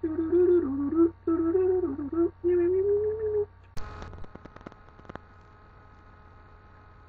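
A person humming a short tune with held notes, stopping after about three and a half seconds, followed by a brief rustle and a few clicks.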